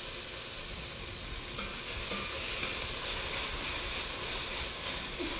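Chopped onions and celery sizzling steadily as they sauté in hot olive oil in an enameled cast-iron pot, stirred with a spatula; the sizzle is the sign that the oil is hot enough.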